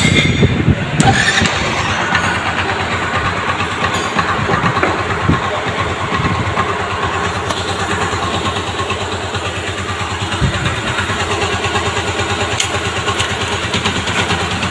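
Yamaha FZ V3's single-cylinder engine running. It is loudest in the first second, then settles to a steady idle.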